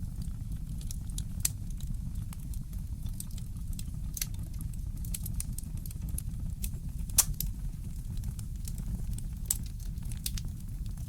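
Wood fire crackling in a fireplace: irregular sharp pops and snaps over a steady low rumble. The loudest pop comes about seven seconds in.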